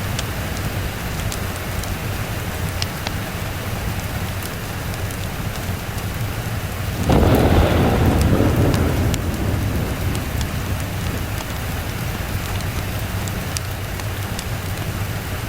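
Steady rainfall, with a clap of thunder about seven seconds in that rumbles and fades away over the next few seconds.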